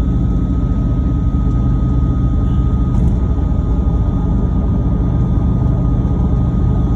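Single-turbo B7 Audi RS4's 4.2-litre V8 running at a steady pace while driving, a low, even drone without revving. A faint steady whine sits on top and stops about three seconds in.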